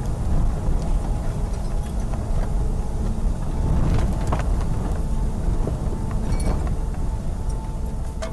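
Loud, steady wind rumble buffeting the microphone in storm footage, with a few scattered knocks and rattles.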